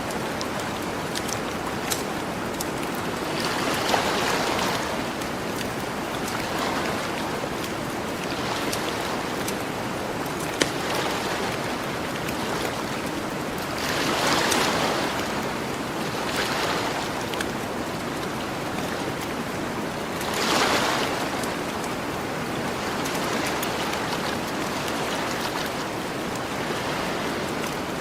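Gentle ocean waves washing onto the shore, each wave swelling and falling back over a steady hiss of surf, with a few sharp pops from a crackling campfire.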